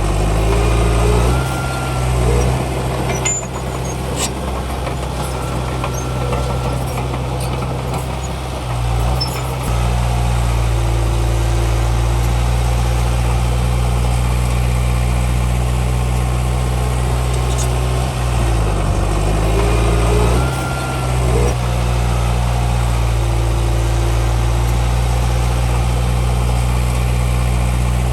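Heavy diesel engine of earthmoving machinery running steadily, its pitch dipping and rising near the start and again about two-thirds of the way through, as it changes load or revs.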